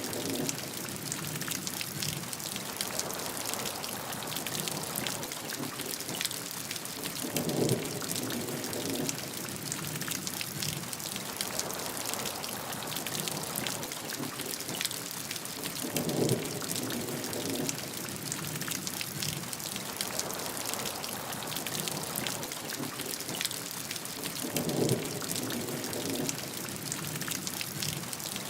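Steady heavy rain falling on a surface, a dense hiss of drops. A brief, lower-pitched sound is the loudest moment each time it comes, three times at even spacing of about eight to nine seconds.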